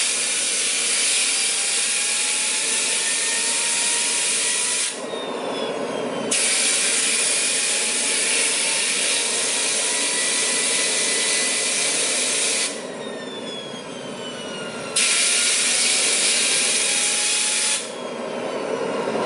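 Homemade propane jet engine being run up: a loud rushing hiss with a turbine whine that rises in pitch. The rush cuts out twice for a second or two, and each time the whine falls, before it comes back on.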